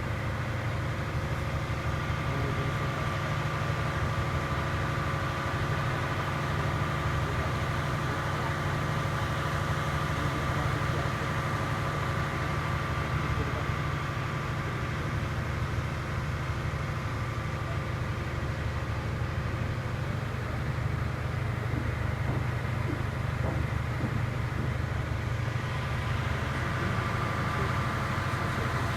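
Ferry's engine running with a steady low drone and a constant hum, unchanging throughout.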